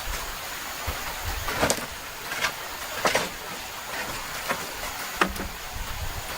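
Steady rush of a mountain stream, with about six irregular knocks and short scrapes from handwork, the loudest about a second and a half and three seconds in.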